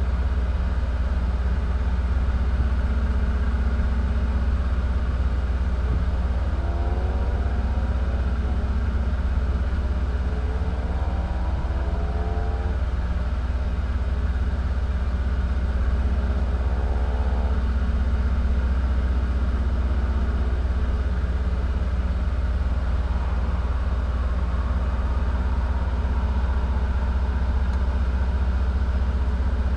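A vehicle engine idling steadily, heard from inside the cab.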